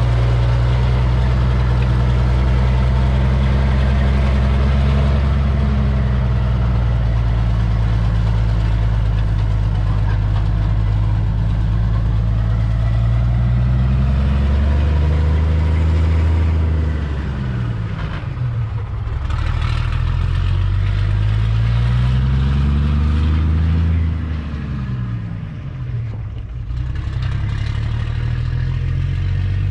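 Cabover truck's engine running steadily, then twice climbing in pitch and falling back in the second half as it accelerates and eases off.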